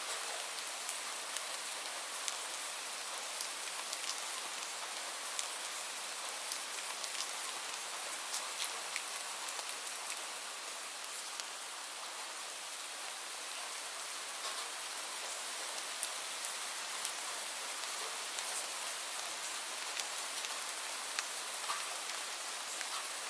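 Steady rain, an even hiss with many separate drops ticking on a hard surface.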